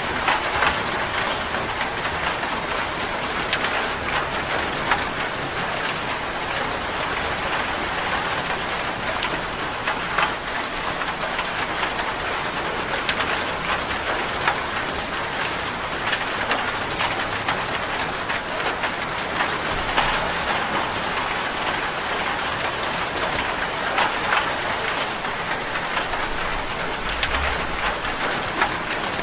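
Steady rain falling, with frequent small drop-like ticks and splats throughout.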